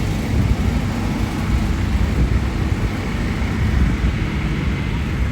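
Steady low rumble of road traffic, without distinct horns or sirens.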